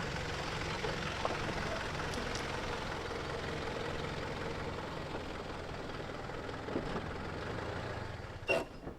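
An engine running steadily at idle, with a sharp click near the end.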